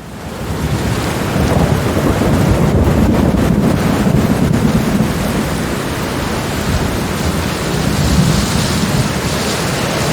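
Thunder rumbling over steady rain. The rumble swells up within the first two seconds, eases a little around the middle and builds again near the end.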